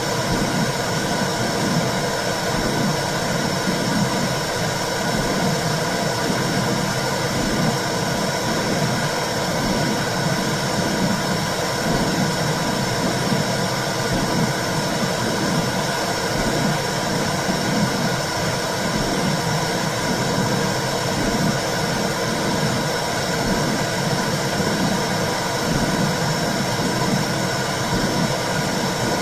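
Womb sound: a steady whooshing noise with a low pulsing underneath and a faint steady hum.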